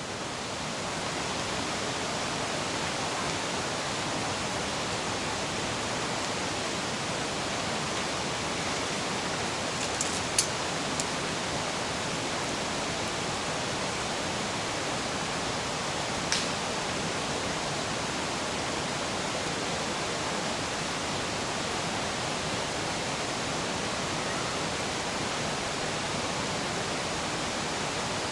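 River rushing, a steady, even noise. A few short sharp clicks stand out about ten seconds in and once more around sixteen seconds.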